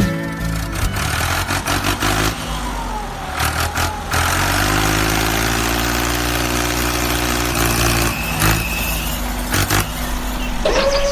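A vehicle engine running with a steady low hum under a noisy rush, with a few sharp knocks along the way.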